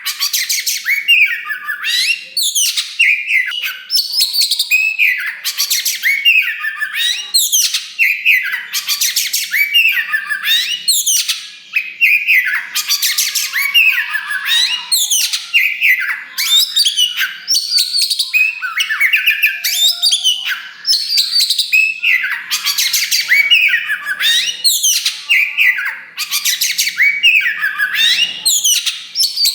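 Black-plumaged oriental magpie-robin (kacer wulung) singing loudly and almost without a break: a fast, varied run of sweeping whistles, quick chattering notes and buzzy trills.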